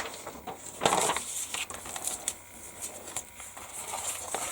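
Light crackling and irregular clicks of a clear plastic model-kit sprue and its plastic bag being handled, loudest about a second in.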